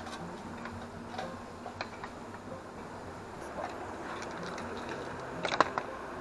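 Sparse light clicks and knocks over a steady background, with a quick cluster of louder clicks about five and a half seconds in.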